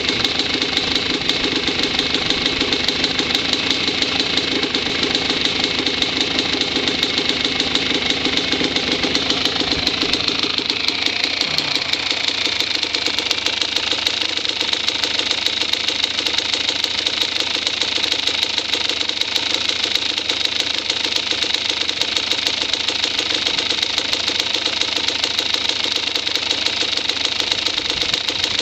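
Engine of a Super City running steadily, with a fast even pulse; its lower tones soften slightly about ten seconds in.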